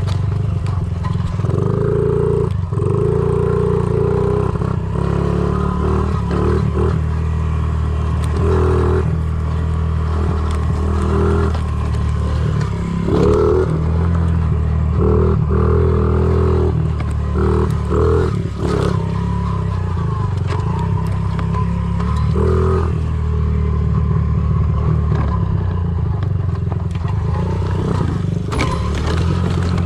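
Honda CRF50 pit bike's small four-stroke single-cylinder engine running under way, its note rising and falling with the throttle again and again. Scattered short clattering knocks run through it.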